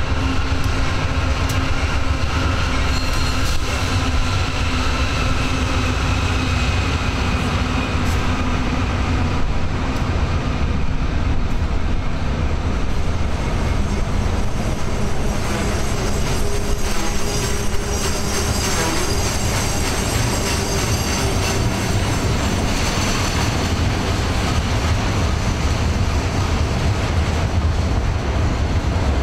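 A double-stack intermodal freight train passing. For the first several seconds the diesel locomotives' engines drone with a slowly falling pitch. After that comes the steady noise of the container cars' wheels rolling over the rails.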